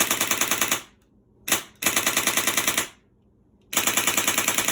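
Polar Star Fusion Engine HPA airsoft RPK dry-firing on about 60 psi of air with no BBs loaded. It fires three full-auto bursts of about a second each at roughly ten shots a second, with one single shot between the first two bursts.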